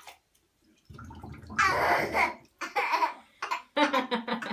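Baby making a loud, drawn-out silly vocal noise about a second in, then laughing in short choppy bursts.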